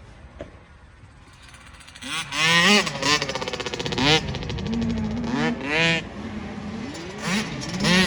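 Motocross race engines revving hard, their pitch rising and falling again and again as riders open and shut the throttle and shift. The engines come in loud about two seconds in and overlap as more than one machine passes.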